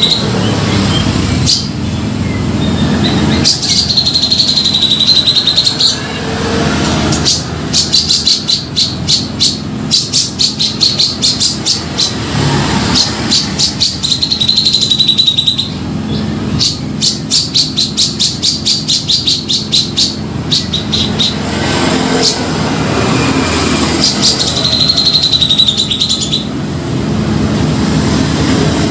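Grey-cheeked bulbul (cucak jenggot) singing continuously: bursts of fast, high chattering notes alternate with wavering whistled phrases. A steady low hum runs underneath.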